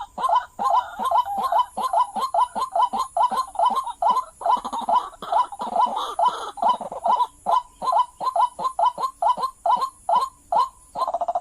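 White-breasted waterhen calling: a fast, unbroken run of short, hooked notes, about five a second.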